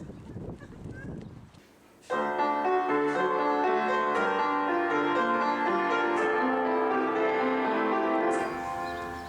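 Piano music that comes in suddenly about two seconds in and fades out near the end.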